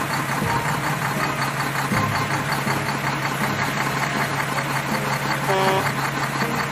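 Car engine sound effect running steadily at idle, with a short pitched tone, like a horn, about five and a half seconds in.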